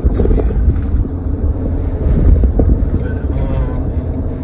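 Car driving at speed, heard from inside the cabin: a steady low rumble of engine and road noise.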